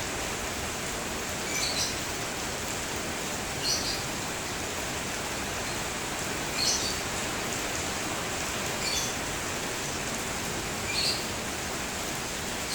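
Steady rain falling, an even hiss, with a bird giving a short high chirp every two to three seconds, five times in all.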